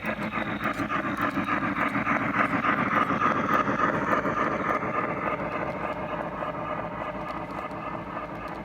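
G-scale model train running past on outdoor track, its wheels giving a rapid, steady clicking clatter that grows louder to a peak about three seconds in and then slowly fades.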